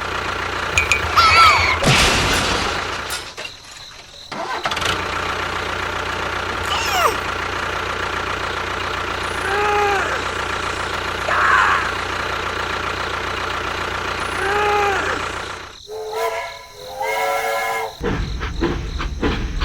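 Vehicle engine running steadily, with a few short tones rising and falling over it, and a brief stack of pitched tones about three seconds before the end.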